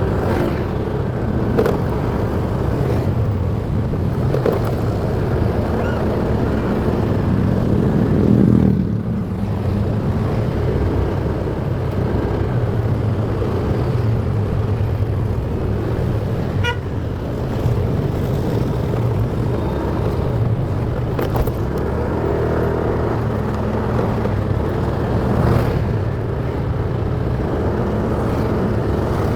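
Motorcycle engine running steadily while riding in traffic, with road and wind noise over it; a brief swell in loudness about eight seconds in.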